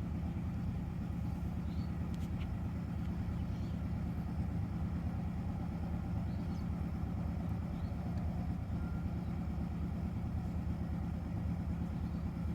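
A steady low mechanical hum of constant pitch, with a few faint high chirps.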